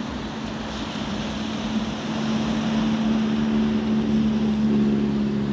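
A steady engine drone that grows louder partway through, over a constant hiss of wind and surf.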